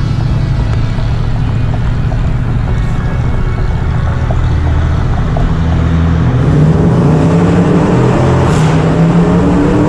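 Dodge Challenger R/T's V8 through a Mopar cat-back exhaust, cruising with a steady low drone, then accelerating, its pitch climbing from about six seconds in.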